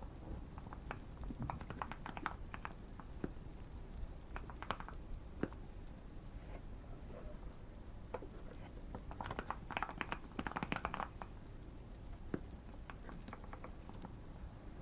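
Typing on a modded Keychron Q1 mechanical keyboard: bursts of soft, thocky key clicks with short pauses, the busiest run a little past the middle. Light fire crackling underneath.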